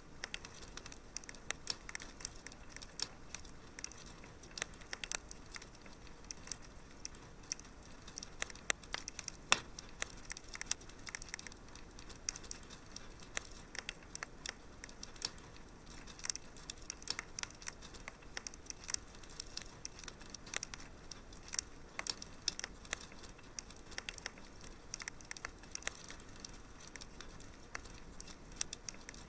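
Fireplace wood fire crackling: irregular sharp pops and snaps, many a second, over a faint steady hiss.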